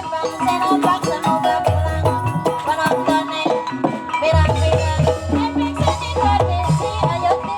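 Live Banyumas ebeg accompaniment music: an ensemble of struck tuned percussion with hand drumming and deep bass strokes, playing a dense, continuous rhythm under a wavering melodic line.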